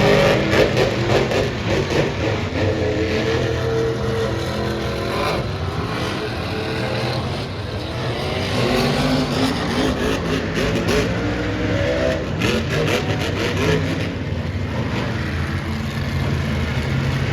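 Monster truck engines revving, their supercharged alcohol-fuelled motors rising and falling in pitch again and again, with sharp crackles mixed in.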